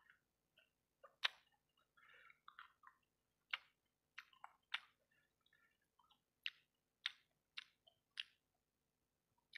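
Close-miked chewing of fried rice-ball satay in sauce: wet mouth sounds with sharp lip smacks and clicks about every second.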